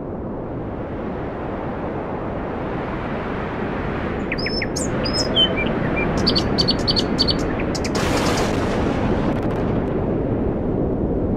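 Birds chirping, a few short high calls and then a quick run of repeated chirps, over a steady low rushing noise; a hiss joins about eight seconds in.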